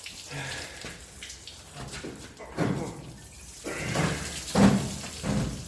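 Engine coolant (antifreeze) splashing and dripping out of an old small-block V8 as it is hoisted, with four louder spells of noise about halfway through and near the end.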